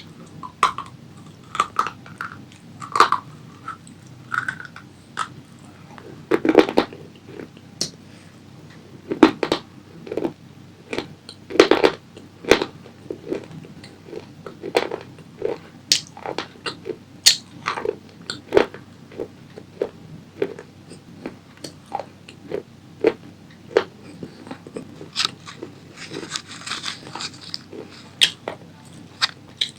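Close-up crunching and chewing of crunchy tomato pasta, bitten in mouthfuls: irregular sharp crunches, several a second, loudest in the middle stretch.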